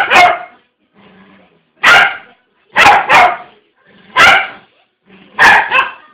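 Dog barking: about eight loud, sharp barks spaced roughly a second apart, several coming in quick pairs.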